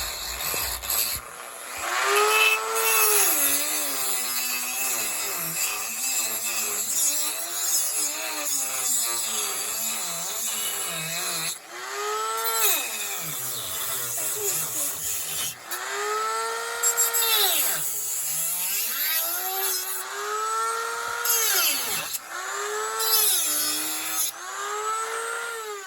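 Dremel rotary tool cutting into a pine wood block, its high motor whine with a hiss of grinding wood. The pitch sags and climbs back several times as the bit bites into the wood and eases off.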